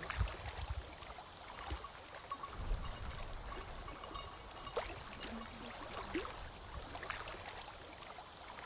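Steady rush of flowing water, with a few sharp clicks and brief low rumbles.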